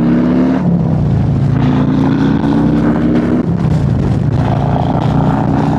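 Harley-Davidson's Screaming Eagle 131 cubic-inch V-twin, fitted with a 517 cam, running under way with wind rush; the engine note climbs gently, drops about three and a half seconds in, then climbs again.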